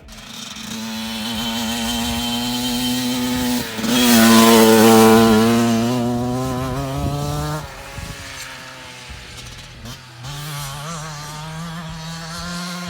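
Motocross bike engine running under throttle, its note holding steady and then coming back louder after a short break about four seconds in. It eases off near eight seconds and pulls again a couple of seconds later.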